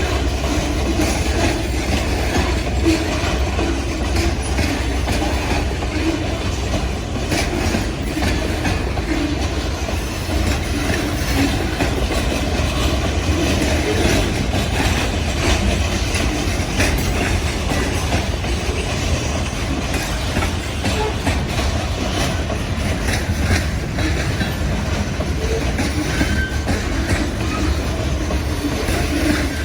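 Freight train rolling past with a steady low rumble and repeated clicking of wheels over rail joints.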